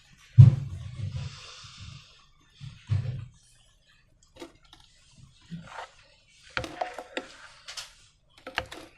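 Slime being squeezed and worked by hand: irregular sticky squelches and soft thuds, the loudest about half a second in, with a cluster of small wet clicks near the end.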